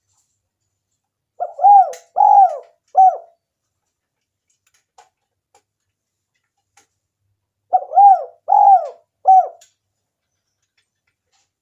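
Spotted dove (tekukur) cooing: two phrases about six seconds apart, each a short note followed by two longer arched coos and a clipped final note.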